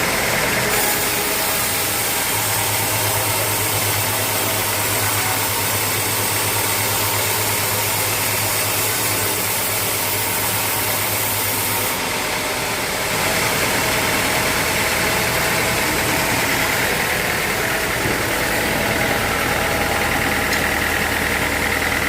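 Sawmill machinery running steadily, a mechanical hum with a hiss over it. The sound shifts about twelve seconds in and gets a little louder a second later.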